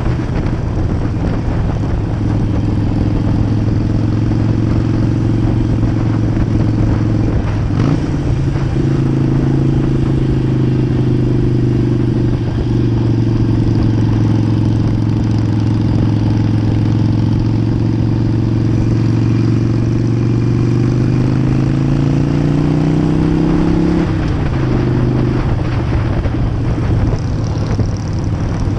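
Harley-Davidson V-twin motorcycle engine running on the road, over a steady rush of wind noise. The engine note breaks briefly twice in the first half as gears are shifted. Later it climbs for a few seconds and then drops back at another shift.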